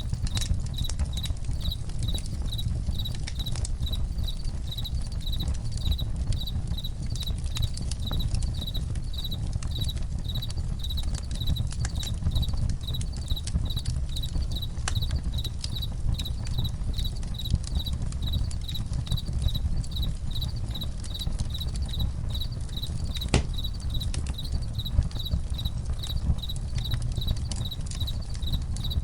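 Campfire crackling, with a low steady rumble and scattered sharp pops, one louder pop near the end; crickets chirp in a steady, regular pulse throughout.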